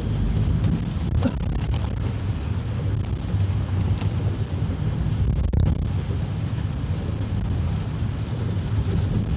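Steady engine and road rumble inside a moving minibus during a downpour, with rain and wet-road hiss, and a few short sharp clicks.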